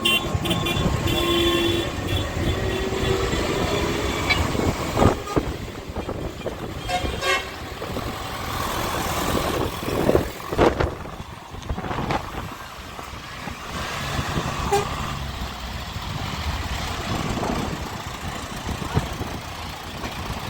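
Vehicles running along a road, with short horn toots now and then, about a second in and again near the end.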